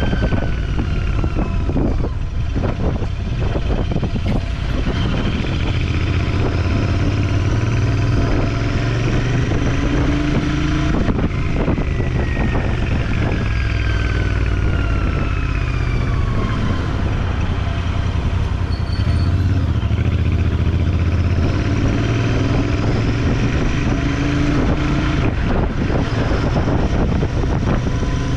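Motorcycle engine running on the move, with wind noise on the microphone. The engine pitch slides down and up several times as the speed changes.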